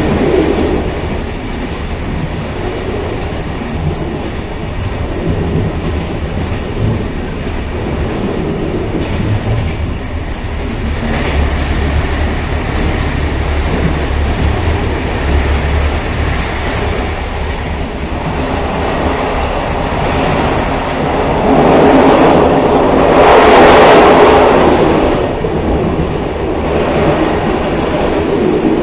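Railcar running on the rails, a steady low rumble with clicking from the wheels over the track. The sound swells louder for a few seconds near the end.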